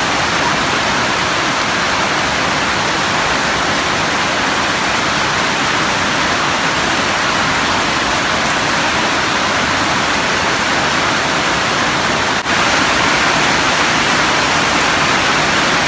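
Heavy tropical downpour: a steady, loud hiss of rain, with a brief break about twelve seconds in.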